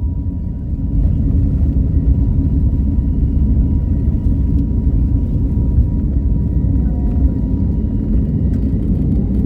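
Airliner's steady low rumble during takeoff, with a faint steady whine above it.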